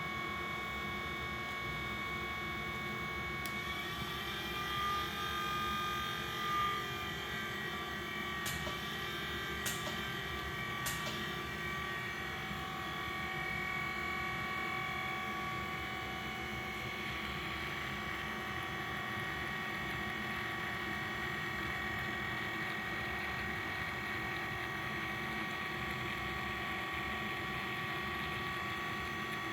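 Continuous inkjet printer running with a steady whine, with a few sharp clicks about a third of the way in.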